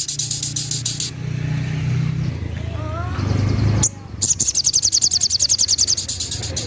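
Sogok ontong (sogon) songbird giving its 'tembakan' song: a rapid, evenly pulsed high-pitched trill. It breaks off about a second in and starts again about four seconds in. A low rumble fills the gap.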